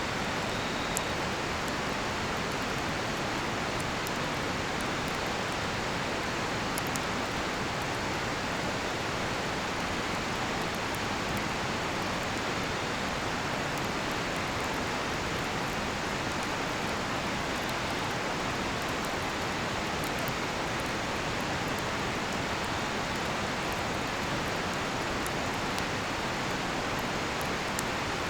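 River water rushing steadily, with faint, scattered crackles from a cedar-wood campfire.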